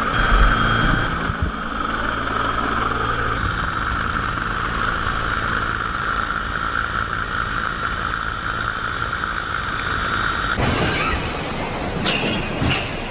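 Rescue helicopter running steadily, a constant high whine over the low steady sound of the rotor. About ten and a half seconds in, the sound cuts abruptly to a rougher, noisier one.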